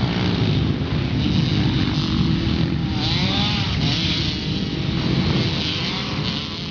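Pit bike engines running on a dirt motocross track, revving up and down. A clear rise and fall in pitch comes about three seconds in.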